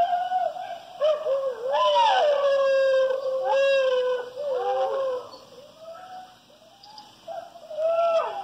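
Dingo howling: long, wavering howls that slide up and down in pitch, pausing about two-thirds of the way through before another howl begins near the end.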